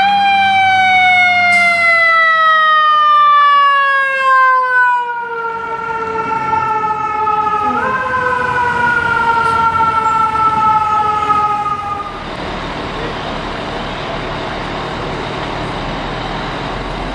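American fire truck siren in a long, slowly falling wail, its pitch kicking back up briefly about eight seconds in, then stopping about twelve seconds in. Steady engine and traffic noise remains after the siren stops.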